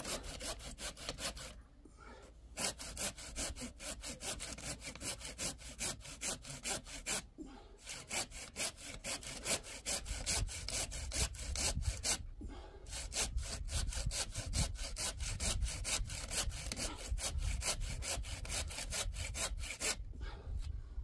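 Hand saw cutting through wood in fast, even back-and-forth strokes. It pauses briefly about two, seven and twelve seconds in and stops near the end.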